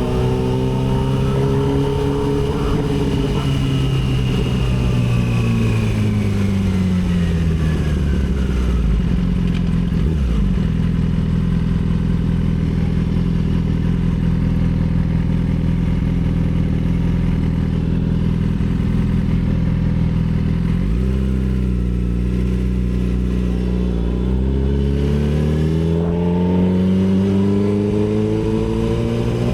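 Yamaha R6 inline-four sport bike engine: the engine note falls as the bike slows, holds a low steady note for about a dozen seconds, then climbs as the bike accelerates away near the end, with a drop as it shifts gear.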